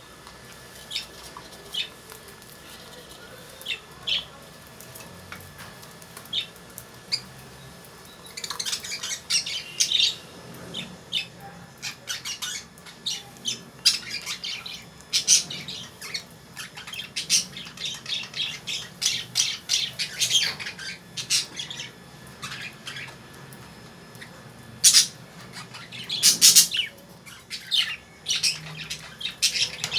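Caged lovebirds calling: a few sharp, shrill calls at first, then a busy run of overlapping shrill calls from about eight seconds in.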